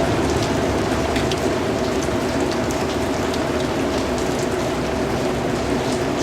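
Steady rain falling, with many small drop ticks pattering through it.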